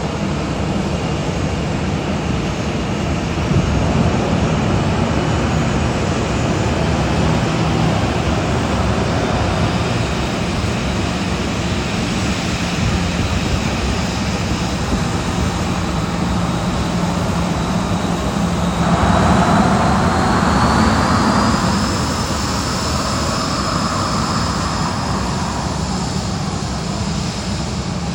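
Boeing 737-700's CFM56-7 turbofan jet engines at takeoff thrust: a loud, steady jet noise with a high whine that rises in pitch about two-thirds of the way through, where the sound is loudest.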